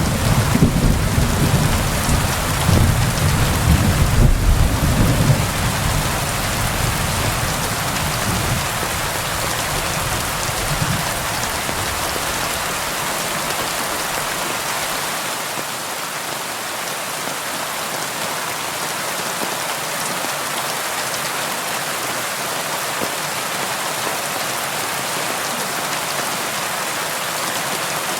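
Steady rain falling on window glass. A low rumble of thunder fades away over the first dozen seconds.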